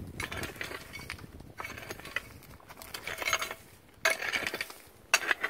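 Hoe digging in stony soil: scraping with metallic clinks, and two sharp strikes about four and five seconds in.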